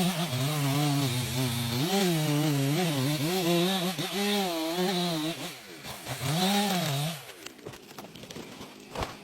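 Chainsaw running as it cuts, its engine pitch wavering up and down under load. It slows, revs once more, and drops away about seven seconds in.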